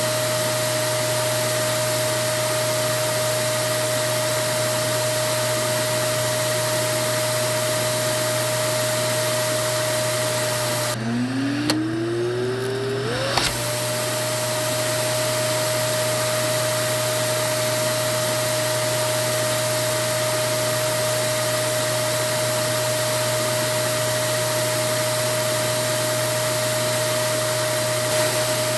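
Vacuum cleaner running steadily: a rushing airflow with a constant motor whine. About eleven seconds in, the rush thins out and the whine drops low, then climbs back up to its steady pitch over about two seconds.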